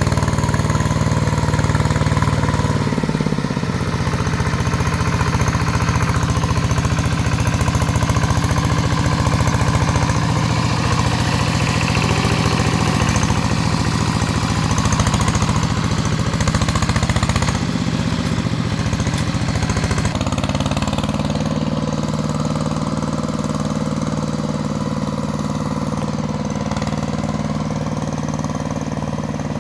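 Two-wheel hand tractor's engine running steadily while working in mud, its note shifting a few times: about three seconds in, past the middle and about two-thirds through.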